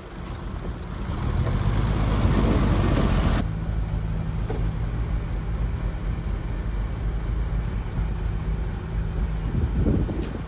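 Heavy diesel earthmoving machinery running. A loud rumbling stretch swells and then breaks off abruptly about three and a half seconds in, giving way to a steadier low engine drone.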